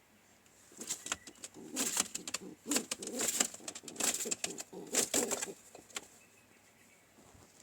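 Pigeons cooing, with sharp scuffling noises mixed in, from about a second in until about six seconds in.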